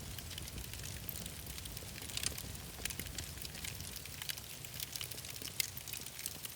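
Wood fire crackling in a fireplace: irregular sharp pops and snaps over a steady low rumble, the loudest pop about five and a half seconds in.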